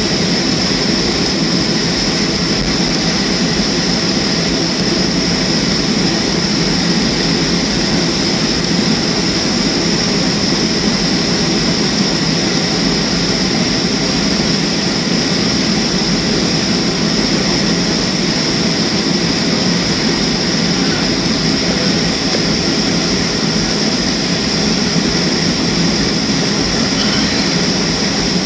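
Boeing 737-300 cabin noise: its CFM56-3 turbofan engines and the air-handling drone running steadily, with a constant high whine over a low rumble.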